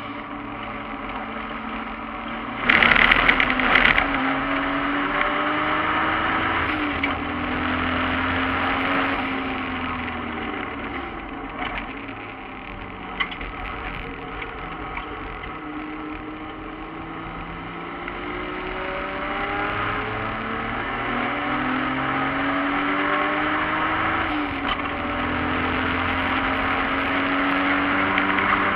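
Turbocharged 1JZ-GTE VVTi straight-six of a BMW E36 race car heard from inside the cabin under hard acceleration, its pitch climbing through each gear and dropping at each upshift, easing off between pulls. A loud rush of noise comes about three seconds in.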